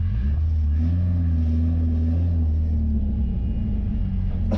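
Turbocharged Ford 2.3-litre four-cylinder engine in a 1963 Volvo running steadily at low revs, its pitch shifting up slightly just after the start.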